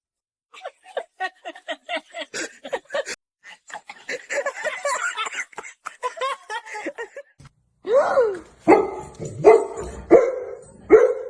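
A dog vocalizing. It starts with a quick run of short yips and whines, moves into a longer wavering whine, and ends with five loud barks about a second apart.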